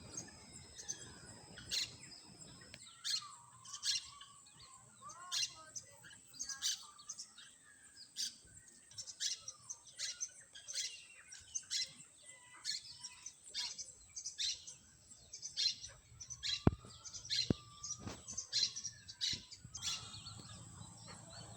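Birds chirping: a run of short, sharp high calls about once or twice a second, with a few lower warbled notes in between, over a faint steady high-pitched tone.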